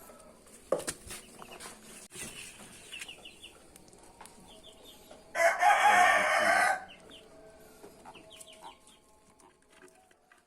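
A rooster crowing once, about halfway through: one call of about a second and a half, much louder than the faint chirps and clicks around it.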